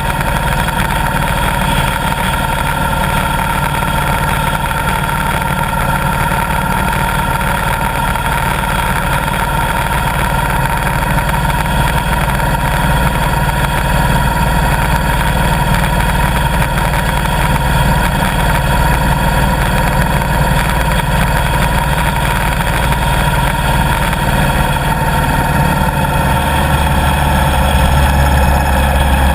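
Motorcycle engine running steadily. Near the end the low rumble grows louder and the engine note drops slightly.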